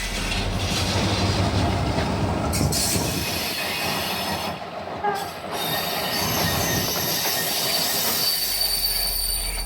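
Passenger train moving on the rails: steady running noise, with thin high-pitched wheel squeal coming in about halfway through and holding to near the end.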